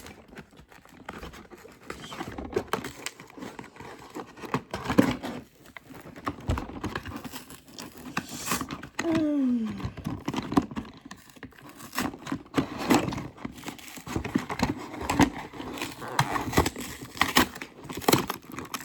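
Toy car packaging being torn open and crinkled by hand, with irregular scratching, rustling and tearing as it is pried apart.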